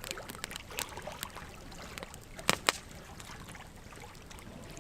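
Wood fire burning logs, crackling steadily with scattered sharp pops, two louder pops about halfway through.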